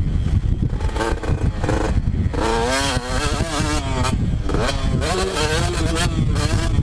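Two-stroke motocross bike engine revving up and down repeatedly as the rider works the throttle around the track. It runs over a heavy low rumble, with scattered sharp knocks.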